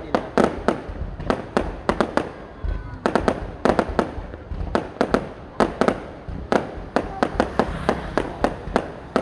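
Fireworks display: rapid volleys of sharp bangs and cracks from aerial shells bursting, several a second in clusters, over a continuous low rumble.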